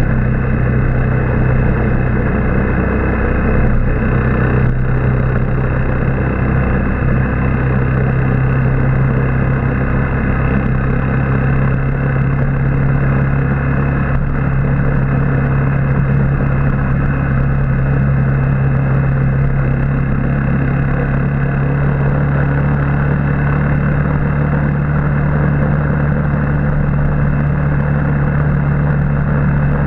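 Motorbike engine running at a steady cruising pace, heard from on the bike: an even low drone with road and air noise, holding nearly the same pitch throughout.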